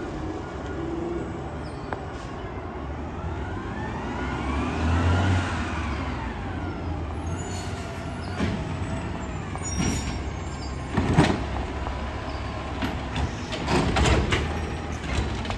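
Garbage truck engine running, its pitch rising to a peak about five seconds in and falling back, followed by a series of sharp metallic clanks and bangs.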